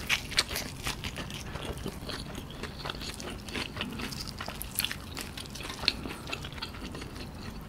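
Close-up chewing of a KFC Cheezilla Double Down's crispy fried Zinger chicken fillets with melted cheese. A crunchy bite at the start gives way to many small crackles and wet mouth sounds of chewing.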